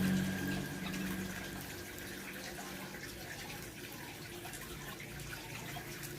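Steady trickle of running water, with faint short chirps of small birds scattered through it.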